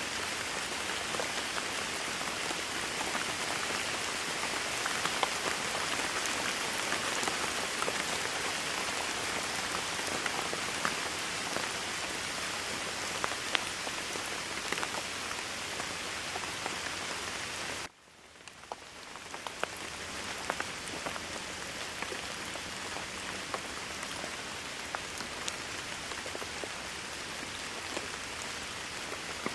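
Steady heavy rain falling on a surface, a dense hiss with many individual drops ticking through it. About eighteen seconds in, the rain cuts out suddenly and fades back up over a couple of seconds.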